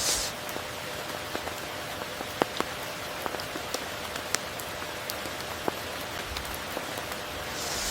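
Steady rain falling, an even hiss with single close drops ticking sharply now and then. A short swell of brighter hiss comes near the end.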